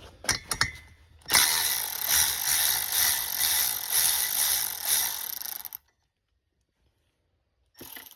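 Socket ratchet clicking rapidly for about four and a half seconds as a 13 mm bolt on a snowmobile engine's Y-pipe is turned, after a few clicks as the socket goes on. It stops abruptly, with one short click near the end.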